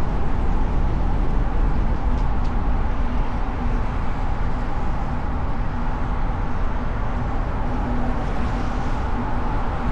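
Car driving in city traffic: a steady rumble of road and wind noise on a hood-mounted microphone, with a faint steady hum that grows a little stronger near the end.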